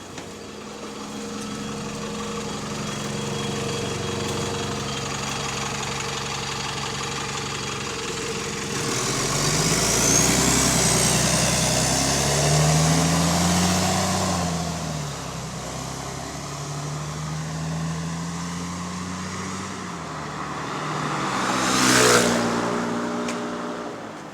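Engine of a bus with a leaking exhaust, running and then revving up and down as it pulls away, with a rising whine about halfway through. Near the end the sound swells to its loudest and then drops in pitch, as the vehicle passes close by.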